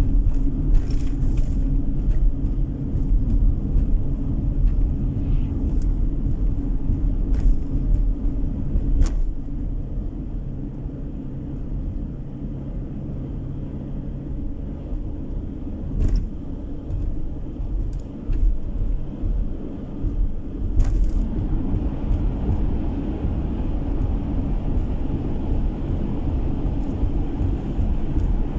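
A car driving, heard inside the cabin: a steady low rumble of engine and tyres on the road, with a few short knocks.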